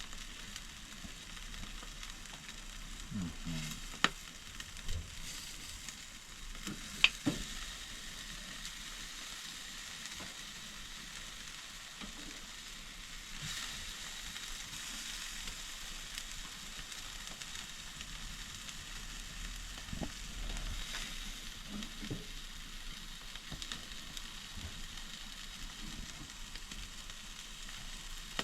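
Jerk chicken legs sizzling on a barbecue grill over the fire, a steady hiss of fat and juices cooking off as the meat dries out near the end of cooking. Two sharp clicks cut through, about four and seven seconds in.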